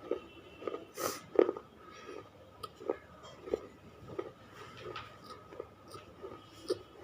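Close-miked chewing of crunchy baked clay chips: a steady series of crunches about two a second, with a louder, sharper crunch about a second in.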